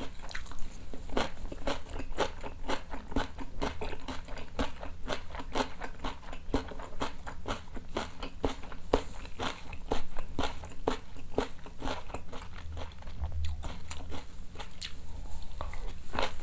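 Close-miked chewing of a mouthful of napa cabbage kimchi: crunchy, irregular bites at about two to three a second.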